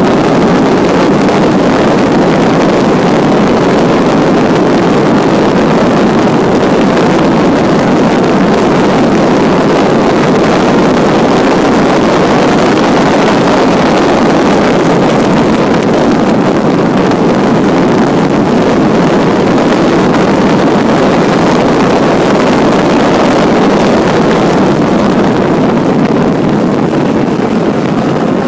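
1952 Jaguar XK120's 3.4-litre straight-six running hard at racing speed, heard from the cockpit as a loud, dense, steady din mixed with wind rush on the microphone. It eases slightly near the end as the car slows for a corner.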